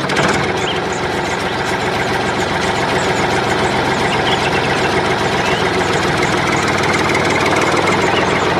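An engine idling steadily. It starts abruptly and grows slightly louder, like a tractor engine running.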